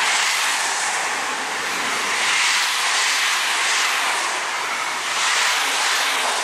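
Loco-hauled passenger coaches rolling past at speed: a steady rush of wheel-on-rail noise that swells and eases several times as the bogies go by.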